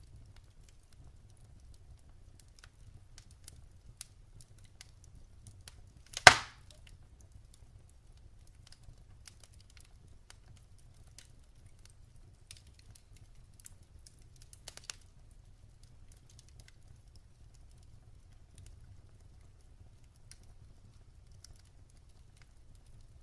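Wood fire burning in a fireplace: sparse small crackles over a low steady rumble, with one loud sharp pop about six seconds in and a few snaps about two thirds of the way through.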